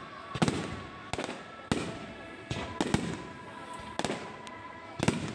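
Low-level fireworks going off in a string of sharp bangs, about eight in five seconds, several of them clustered near the middle, each trailing a brief echo.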